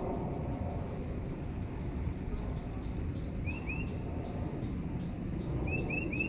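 Wild birds chirping over a steady low outdoor rumble: a quick run of six high, down-sweeping notes about two seconds in, then short lower chirps, a pair and later a trio near the end.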